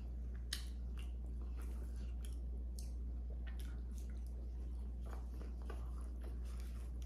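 Close-miked chewing of seafood boil: wet, irregular mouth smacks and clicks over a steady low hum.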